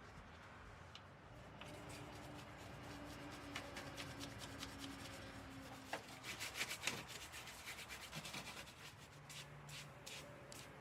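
Faint rubbing and scrubbing on a surface during hand cleaning, with the strokes coming quicker and a little louder in the second half.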